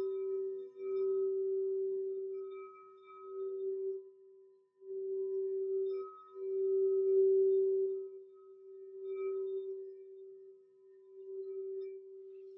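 Singing bowl ringing with one steady low tone and faint higher overtones, swelling and fading in waves and almost dying away about a third of the way through.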